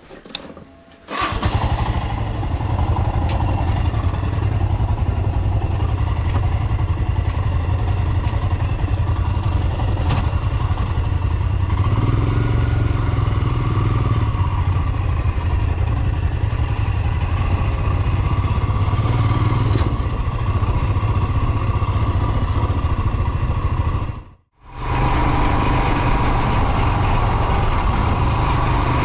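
Royal Enfield Himalayan's single-cylinder engine running steadily. It cuts in suddenly about a second in, and the sound drops out briefly near the end before it resumes.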